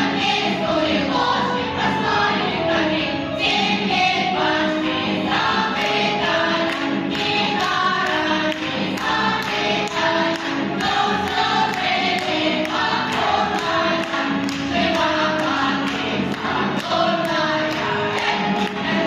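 A group of voices singing a song to a backing track with a steady beat.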